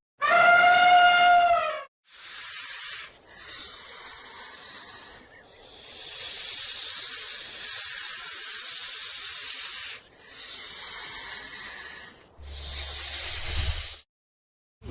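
An animal hissing in five long breaths, one of them lasting about four seconds, after a brief high pitched call at the start.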